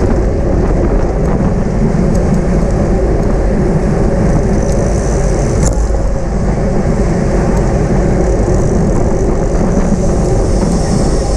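Steady rush of wind over a camera microphone on a bicycle moving at racing speed.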